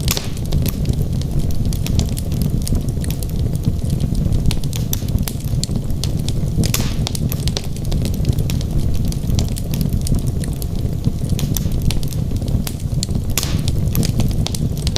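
Wood logs burning in a fireplace: a steady stream of small crackles over a low rumble of flame, with louder pops at the start, about halfway through, and near the end.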